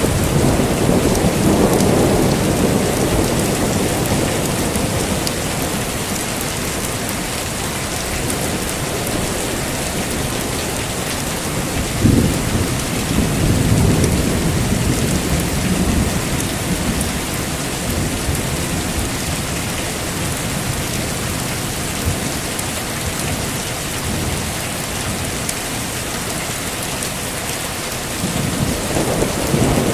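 Heavy rain falling steadily, with thunder: a low rumble at the start, a sharp thunderclap about twelve seconds in that rolls on for a few seconds, and another rumble building near the end.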